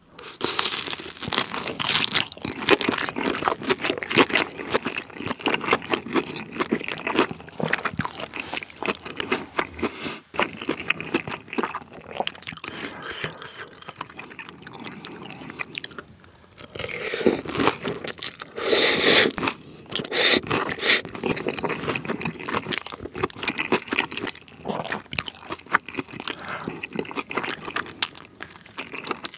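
Close-miked eating of spicy tteokbokki: steady wet chewing with dense, irregular mouth clicks and smacks. The sound grows louder for a few seconds about two-thirds of the way in.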